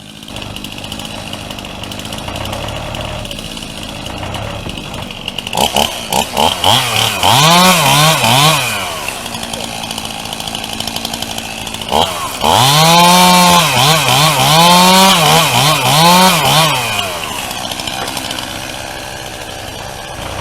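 Gas chainsaw cutting into a white oak log in two bouts, about six seconds in and again about twelve seconds in. Its pitch dips and rises repeatedly as the chain bites and is eased. It drops back to a lower, steady run in between.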